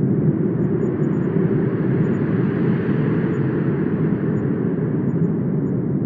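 Wind blowing steadily, a low rushing that swells a little in the middle and eases again.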